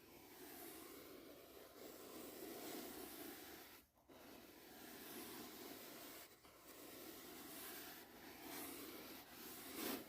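A brush stroking in long swishing sweeps, one after another, with short breaks about four and six seconds in and a louder stroke near the end.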